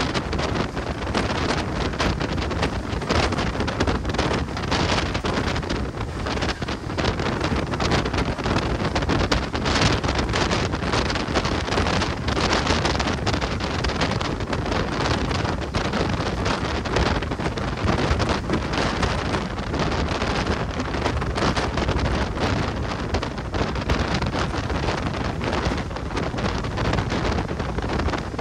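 Heavy wind buffeting the microphone over the steady running noise of a moving train hauled by a WDG4 diesel locomotive, with frequent small knocks and rattles throughout.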